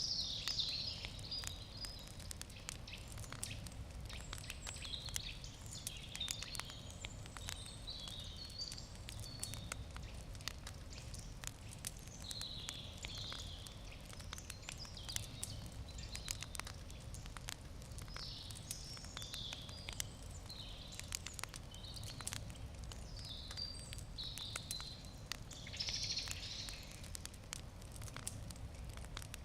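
Wood campfire crackling, with frequent small sharp pops and snaps scattered irregularly throughout.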